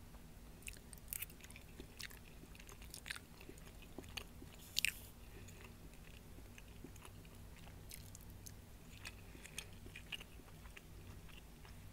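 Chewing and mouth sounds of someone eating a mouthful of meatloaf and rice, with scattered soft clicks, the sharpest about five seconds in, over a faint steady low hum.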